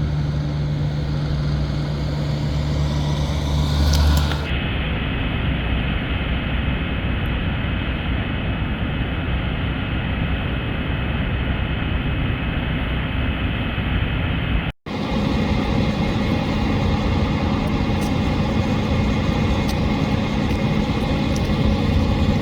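Steady hum and rumble of idling vehicle engines, with no voices. The sound changes abruptly twice, about four and a half and fifteen seconds in, as if cut from separate recordings.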